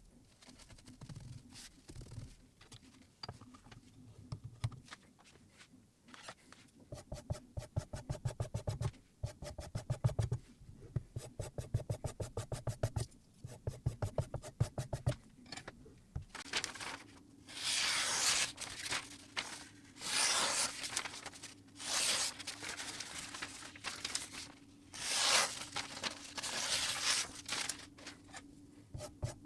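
Silicon carbide water stone on a Hapstone R2 guided sharpener scraping along the steel edge of a Damascus chef knife. First comes a run of quick short strokes; from about halfway on come longer hissing passes, about one every two seconds.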